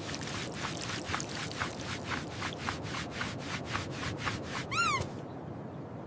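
Cartoon scrubbing sound effect: rhythmic rubbing strokes, about four a second, as a surface is cleaned, ending in a short squeak that rises and falls in pitch near the end.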